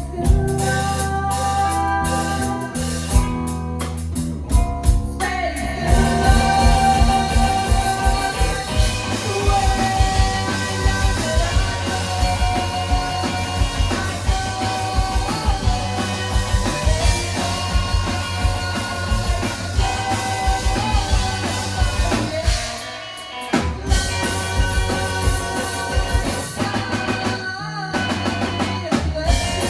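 Live rock band playing a song: drum kit, guitar and singing. The drums thicken into a steady beat about five seconds in, and the band drops out briefly about three-quarters of the way through before coming back in.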